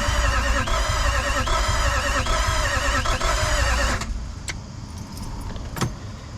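Starter motor cranking a Toyota 1VD-FTV V8 turbo diesel steadily for about four seconds, then stopping without the engine firing. No fuel rail pressure is building.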